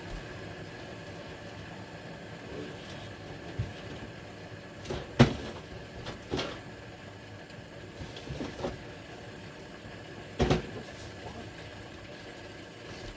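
A handful of separate knocks and clunks from things being handled, the loudest about five seconds in, over a faint steady high hum.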